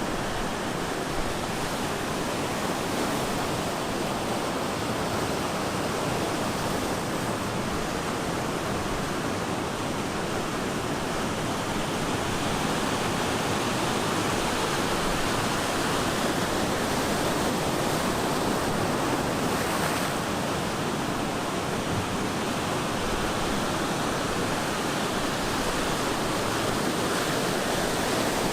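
Ocean surf breaking and washing onto the beach in a continuous dense roar, swelling slightly now and then without distinct separate wave crashes.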